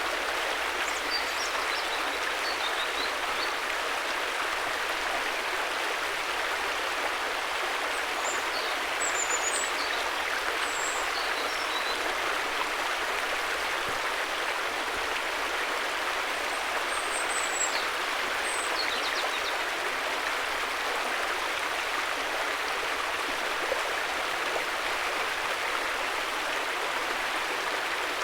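River water running steadily with an even rushing sound. Faint high chirps come through a few times.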